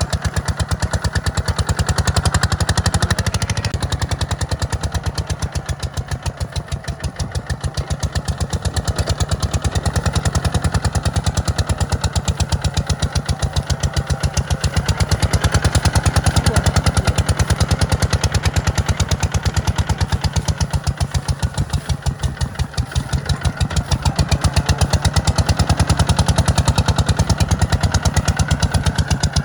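Tractor diesel engine running steadily with an even firing pulse, its level swelling and easing every several seconds, as while plowing sandy ground.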